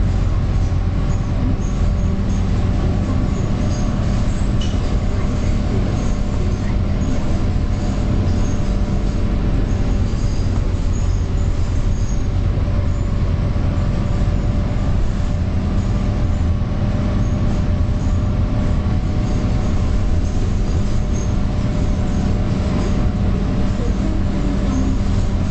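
Scania K230UB bus running at a steady engine speed: a constant drone with a low hum and several steady tones, neither rising nor falling.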